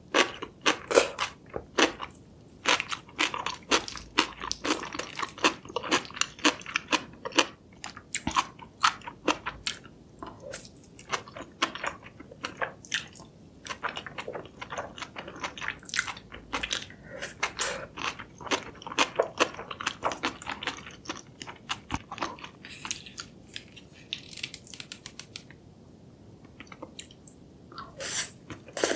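Close-miked eating sounds: jjajangmyeon black bean noodles being slurped and chewed, a dense run of wet clicks and smacks. It thins out for a few seconds in the later part and grows loud again near the end.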